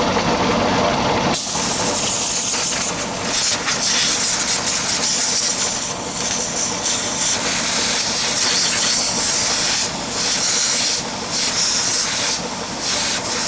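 A loud, high-pitched hiss of rushing air, broken by short gaps every second or so. It begins abruptly about a second in, just as a lower running sound stops.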